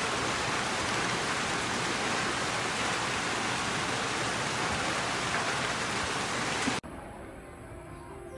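Steady rain falling, an even hiss. It cuts off suddenly near the end, leaving a much quieter background.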